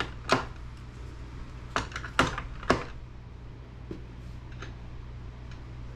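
Sharp clicks and knocks of an old Dell laptop's plastic case and tools being handled as it is taken apart, four loud ones in the first three seconds and fainter taps after, over a steady low hum.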